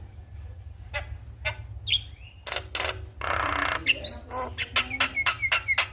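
Javan myna calling: scattered sharp clicks and chirps, a harsh rasping squawk a little past halfway, then a fast run of short repeated notes.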